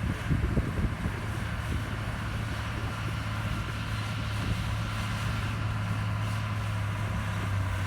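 Diesel engine of heavy earthmoving machinery running steadily under work, with a few irregular knocks in the first second.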